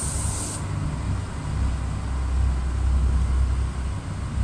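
Irish Rail 22000 Class InterCity diesel railcar set passing close below, with a steady low engine and wheel rumble that grows louder about two and a half seconds in. A short hiss sounds at the very start.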